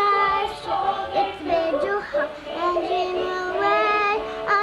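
A young girl singing in a clear voice, holding long notes that glide up and down in pitch.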